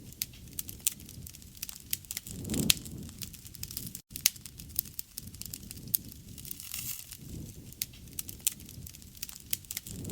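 Campfire burning: wood crackling and popping in frequent sharp snaps over a low rush of flame. There is a louder flare of crackling a little over two seconds in, and the sound drops out for a split second about four seconds in.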